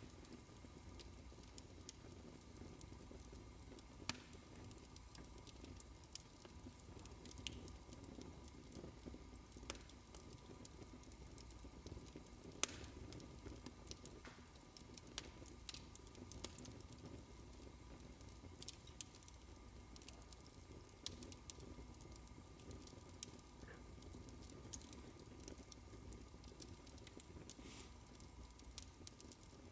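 Fireplace fire crackling softly: a low, even rumble of burning with irregular sharp pops and snaps, a few of them louder than the rest.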